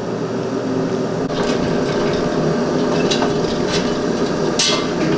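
A steady mechanical hum with about five short, sharp clicks and knocks scattered through it. The loudest click comes near the end.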